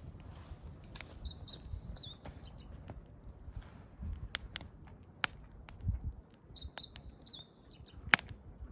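Wood fire crackling with scattered sharp pops, the loudest near the end, over a low rumble. A songbird sings a short, high warbling phrase twice, about a second in and again about seven seconds in.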